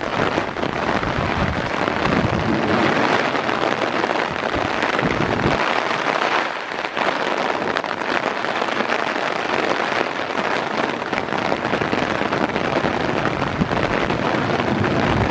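Heavy pouring rain: a dense, steady hiss of rain with many close drops pattering near the microphone, and some low wind rumble on the microphone near the start and end.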